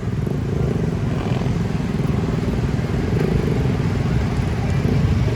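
Motor vehicle engines running close by in congested city traffic: a steady low drone.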